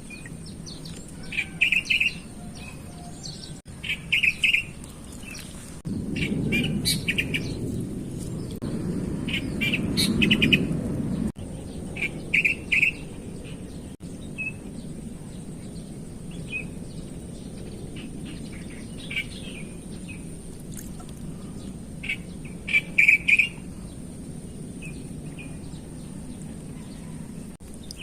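Wild birds chirping in short bursts of quick, high calls every few seconds, over a low background rumble that swells for about five seconds near the middle.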